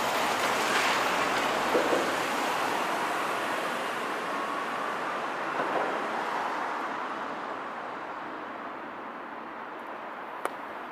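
Single-car 9640-series diesel railcar running away down the track, its rumble of wheels on rail fading steadily as it recedes, with a couple of faint clacks along the way. A single sharp click comes near the end.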